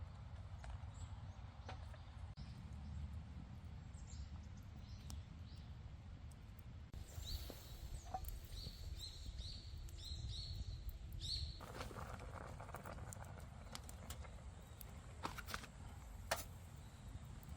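Faint outdoor ambience with a low rumble. A bird gives a quick series of about eight short, high chirps in the middle, and sharp clicks and crackles come scattered through, more of them near the end.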